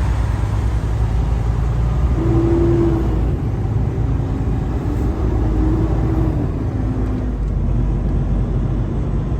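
Semi truck's diesel engine running under way, heard from inside the cab: a steady low rumble with a faint whine that comes in about two seconds in and again near the middle.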